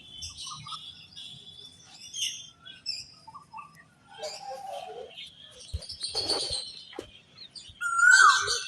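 Several birds chirping and calling in short, scattered notes. A louder call that holds its pitch and then drops comes near the end.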